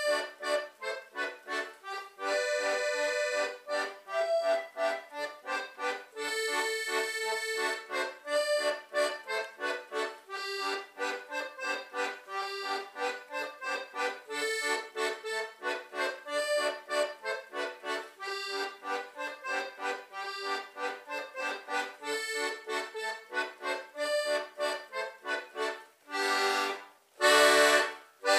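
Concertina playing a lively vira dance tune in quick, detached notes, closing with two loud full chords near the end.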